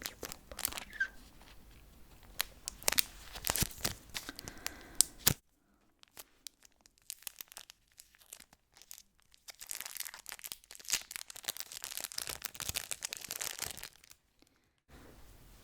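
Packaging being torn and crinkled close to the microphone: dense crackling with sharp clicks, broken by two short pauses, one about five seconds in and one near the end.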